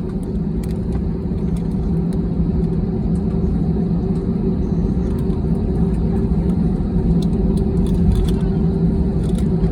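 Airliner cabin noise while taxiing to the gate after landing: a steady rumble from the jet engines with a low, even hum, heard from inside the cabin.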